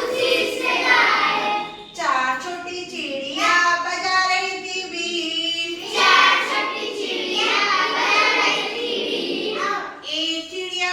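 A group of children singing a Hindi counting rhyme together in unison, in sung phrases with short breaths between them.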